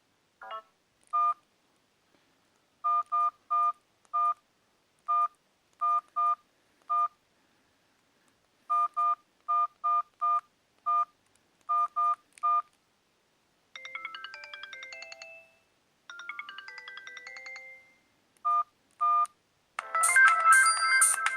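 Sony Ericsson W580i mobile phone: a string of identical short keypad beeps at uneven spacing, then two brief melodic ringtone snippets that each stop after about two seconds, two more beeps, and a loud preloaded ringtone starting near the end.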